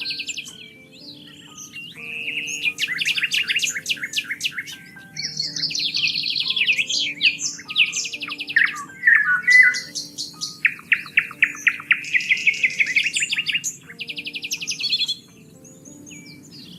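Songbirds singing: a string of varied high phrases, many made of fast repeated notes and trills, with short pauses between them, over soft sustained low notes. The birdsong quiets a little near the end.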